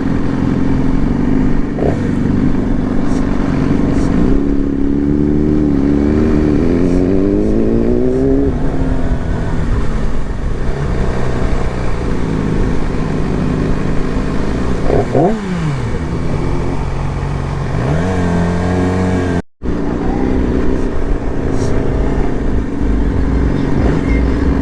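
Loud sport motorcycle engines idling, one revving: the pitch climbs slowly about five to eight seconds in, then two quick rev blips rise and fall later on.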